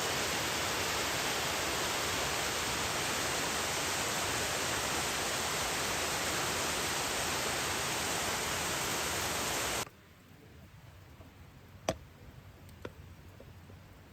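Steady rushing of water, cutting off suddenly about ten seconds in. Low quiet follows, with two faint sharp clicks.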